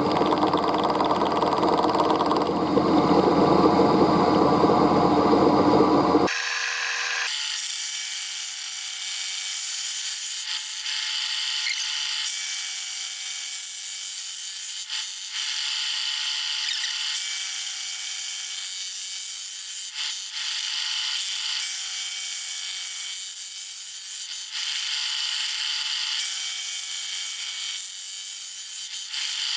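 Power machine tool running while cutting a cold-rolled steel bar. About six seconds in the sound changes abruptly from a dense, lower machine running to a high whine with cutting hiss, which comes and goes in stretches of a few seconds.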